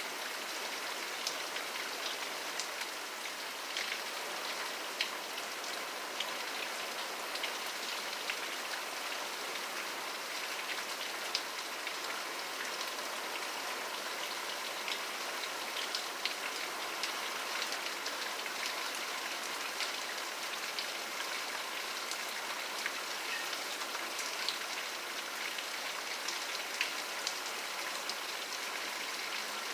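Steady rain, a dense even hiss with many small sharp drop ticks landing on a surface.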